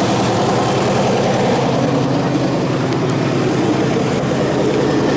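The 1956 GMC half-ton's original Pontiac V8 idling steadily.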